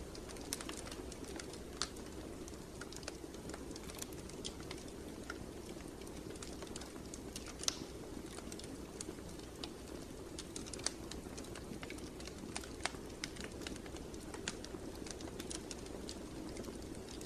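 Wood fire burning in a fireplace: irregular crackles and snaps over a steady low rush of the flames, with one louder pop about eight seconds in.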